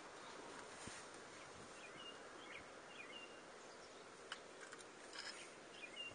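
Faint outdoor background: small bird chirps repeating every second or so over a soft steady hiss, with a few light clicks in the second half.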